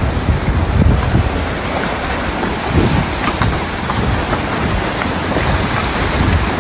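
Wind buffeting the microphone over a steady rush of water, with scattered small splashes and drips.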